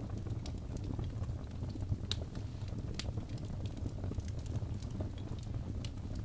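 Wood fire burning in a fireplace: a steady low rumble of flames with frequent sharp crackles and pops at irregular intervals, a louder pop about two seconds in.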